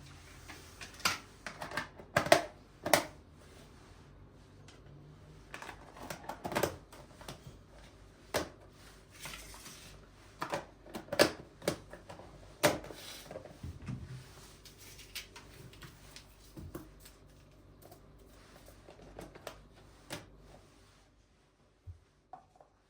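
Irregular light clicks, taps and knocks of small objects being handled and set down, over a faint steady hiss that stops about 21 seconds in.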